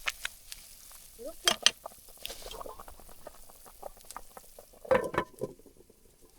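Scattered clicks and knocks of a utensil against a cooking pot as boiling pork is turned over and stirred, with louder clatters about a second and a half in and again near five seconds.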